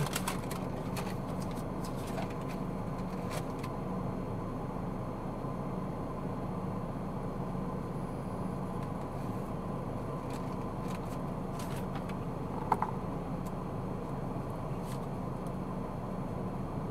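Steady car driving noise heard inside the cabin, a low hum of engine and tyres on the road, with scattered faint clicks and one brief sharper sound about 13 seconds in.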